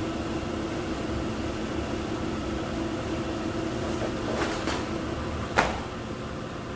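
Jet dyeing machinery in a textile dyeing plant running with a steady hum. Two light knocks come a little after halfway, then one sharp knock about a second later.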